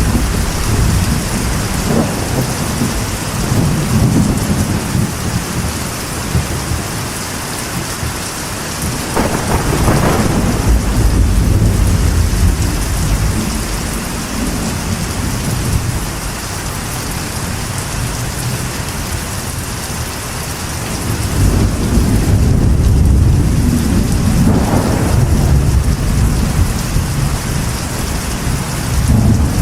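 Steady rain hammering on a metal roof, with thunder rumbling and swelling several times.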